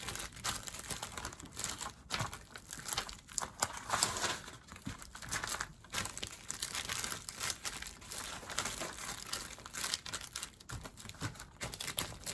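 Self-adhesive plastic shelf liner crinkling and rustling as hands press and smooth it flat over paper, in a run of irregular crackly rubs.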